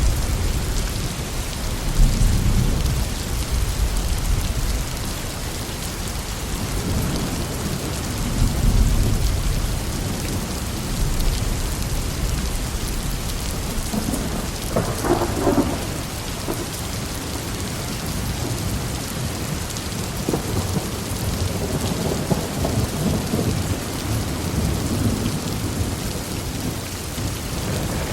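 Heavy rain falling steadily, with low rolling thunder swelling and fading every few seconds and a sharper rumble about halfway through.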